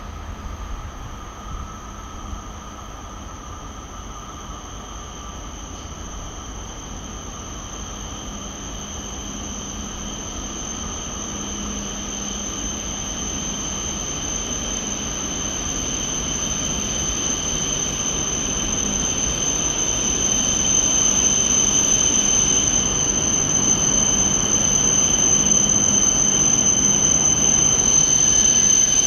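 E5 series Shinkansen train pulling slowly into a station platform. Its running noise grows steadily louder as it draws near, under a steady high-pitched squeal, most likely from the brakes as it slows to stop.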